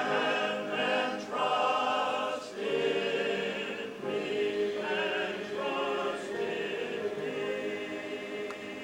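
A choir singing sustained notes with vibrato, the sound gradually softening toward the end.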